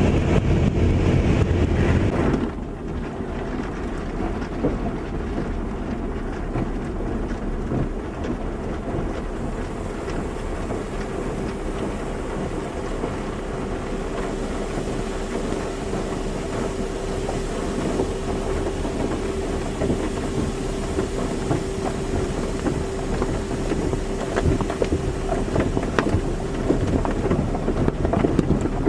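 Car wash running: a steady rush of spraying water and machinery, louder and deeper for the first couple of seconds and then dropping abruptly to a lighter, even rush. A faint steady hum comes in partway through and fades near the end.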